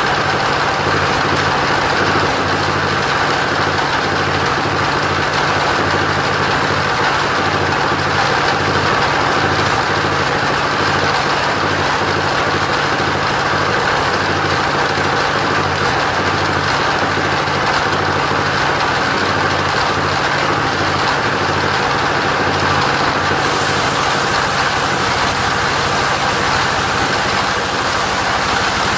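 Engine of a mobile sawmill for coconut wood running steadily at one pitch, a low hum under a steady hiss.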